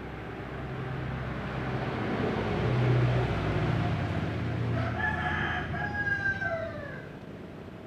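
A rooster crows once, about five seconds in: a crow of about two seconds that drops in pitch at its end. Beneath it is a low hum that swells to its loudest about three seconds in and then fades.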